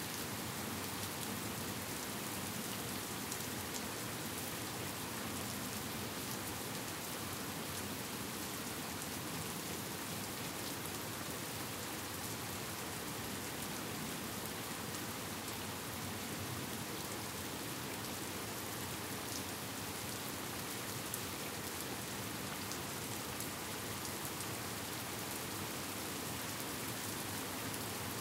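Steady rain falling: an even hiss with scattered single drop ticks.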